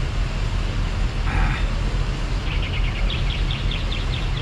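A steady low rumble runs underneath throughout. A short hiss comes about a second in, then a quick run of high chirps, about six a second, from a small bird in the second half.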